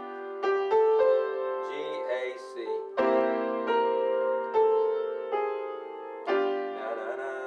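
Piano playing a slow blues phrase in C: notes and chords struck one after another, roughly one to two a second, each left to ring.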